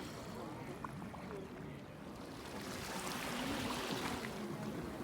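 Small waves of a calm sea washing in, with the wash swelling about three seconds in. Faint distant voices are heard under it.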